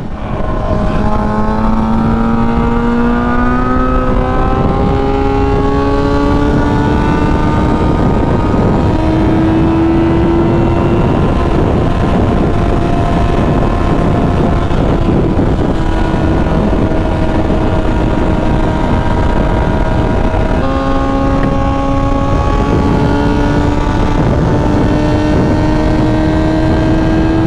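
A vehicle's engine pulling under load with heavy wind and road noise. Its pitch climbs slowly, drops a step about two-thirds of the way through as it shifts up, then climbs again.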